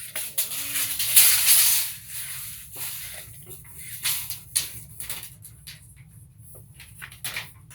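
Craftsman 25-foot tape measure blade sliding through its case with a hissing rasp for about a second and a half, followed by scattered light clicks and taps.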